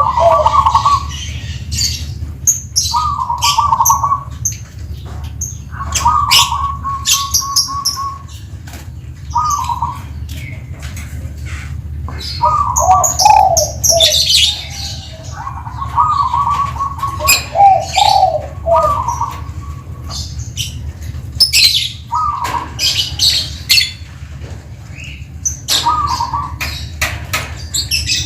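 Zebra dove (perkutut) cooing in repeated phrases every few seconds, some of them drawn out for a second or two, while other small birds chirp high and short in between, over a steady low hum.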